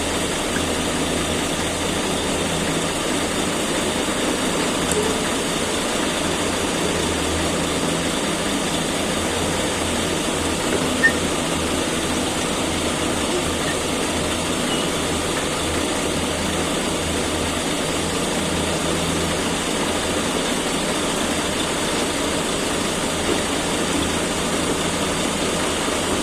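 Caterpillar excavator's diesel engine running steadily, with one brief click about eleven seconds in.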